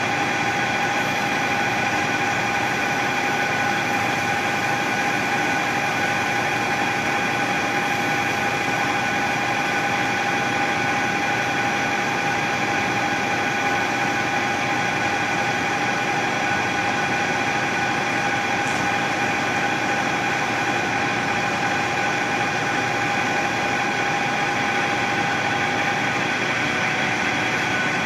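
Machine tool running steadily with an even whine and a constant hiss, its main tone dropping slightly near the end.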